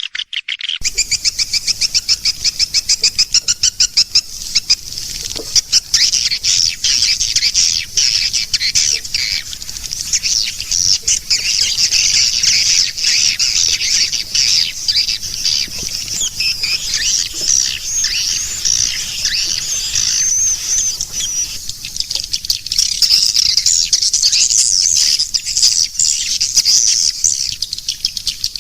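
Swiftlet lure call: a dense, continuous chatter of high-pitched chirps and rapid clicking twitters from swiftlets, the playback sound used to attract swiftlets to a nesting house. It starts abruptly just under a second in with a fast run of clicks.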